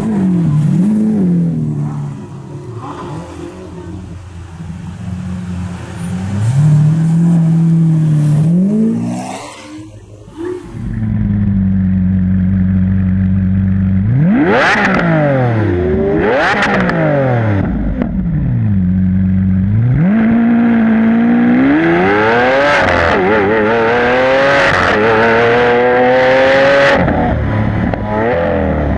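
Lamborghini Aventador LP700-4's V12 through a factory racing exhaust, driving with the engine note rising and falling. About halfway through come two quick, sharp revs, then a long climb in pitch through the revs near the end.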